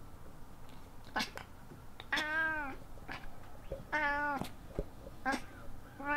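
Domestic cat meowing and chattering at birds: three drawn-out meows about two seconds apart, with short clipped chirps between them.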